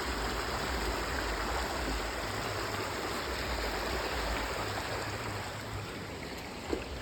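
Steady rush of flowing river water, running high after a flood.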